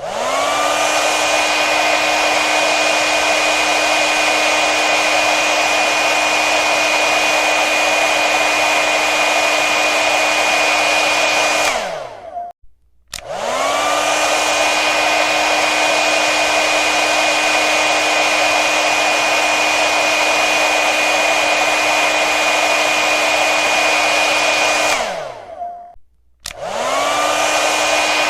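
Hair dryer blowing with a steady rush of air and a high motor whine. It is switched off twice, the whine falling as the motor spins down into a brief silence, and each time it is switched back on and rises to speed.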